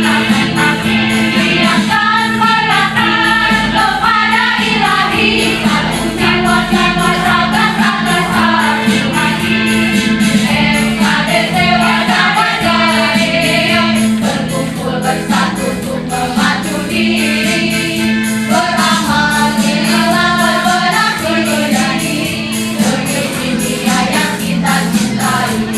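Choir singing together over musical accompaniment with a steady beat.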